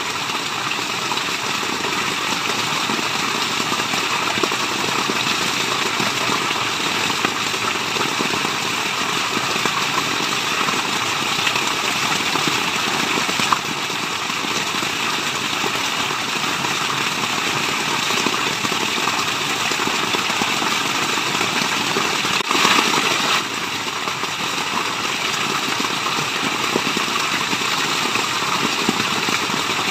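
Steady rush of water, an even hiss with no pauses or rhythm, briefly a little louder for about a second three-quarters of the way through.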